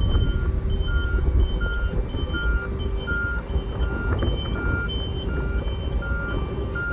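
Reversing alarm on an Isuzu FTR750 truck beeping steadily in alternating low and high tones, about three beeps a second, over the truck's diesel engine running.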